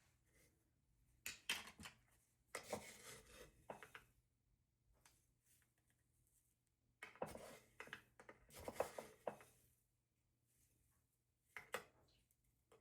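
Kitchen handling sounds: dishes and utensils clattering and scraping in four short bouts, with near silence between them.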